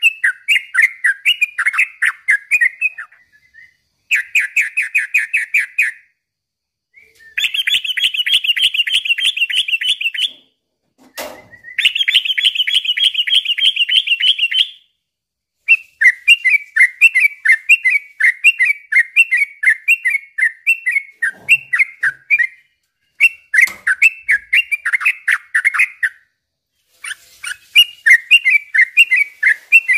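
Yellow-vented bulbul (trucukan) singing in repeated bursts of quick chattering notes, each run a few seconds long with short pauses between. Two long, even, rapid trills come about a third of the way in, and a brief click falls between them.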